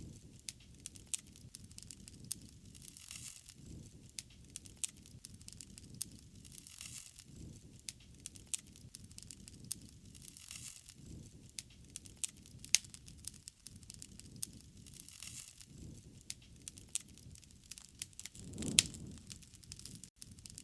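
Wood fire crackling, with frequent sharp pops over a low, even rush, and one louder pop near the end.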